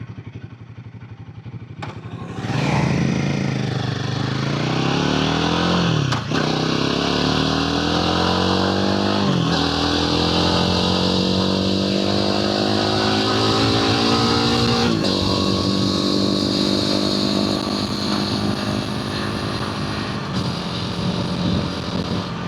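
Royal Enfield Himalayan 450's single-cylinder engine and exhaust pulling away under acceleration. It rises in pitch through the gears, with a sudden drop at each of three upshifts, then settles into steadier cruising, with wind noise over it.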